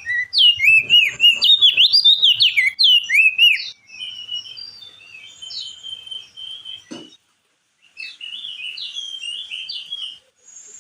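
Crested white-eye (opior jambul) singing: a rapid, loud warble of swooping whistled notes that turns quieter after about four seconds. The song breaks off briefly around seven seconds in, with a single click, then resumes.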